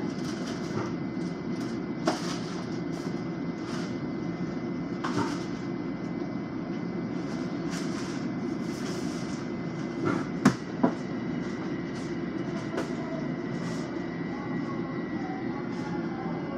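Steady low rumble and hum of a Long Island Rail Road M7 electric train, with a faint steady high whine that fades near the end. Scattered clicks and knocks, the sharpest two close together about ten and a half seconds in.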